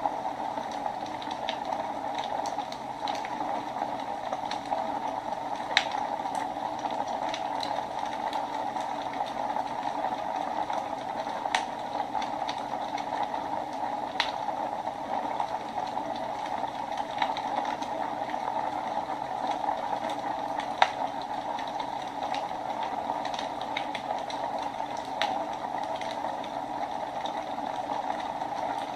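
Wood fire burning in a fireplace: a steady hiss with irregular sharp crackles and pops scattered throughout, a few of them louder.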